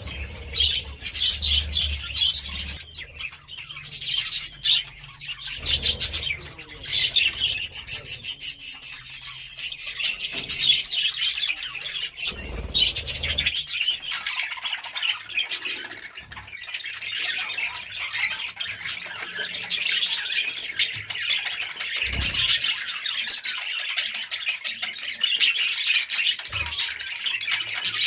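A flock of budgerigars chattering and squawking without a break. There are a few brief low thumps underneath.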